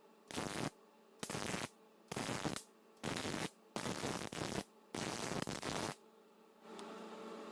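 Arc welding on a cracked muffler, about six short crackling welds that start and stop abruptly, roughly one a second, as the seam is tacked and stitched. A steady hum starts near the end.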